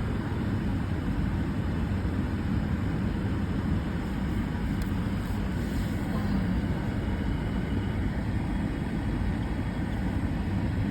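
Steady low rumble of a vehicle idling, heard from inside the cab.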